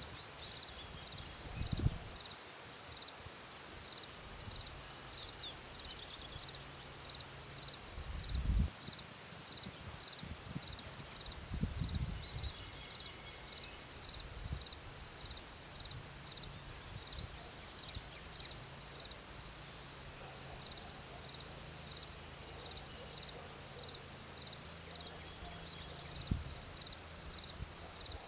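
Insects chirping steadily in a high, rapidly pulsing chorus. A few brief low rumbles come through, about two, eight and twelve seconds in.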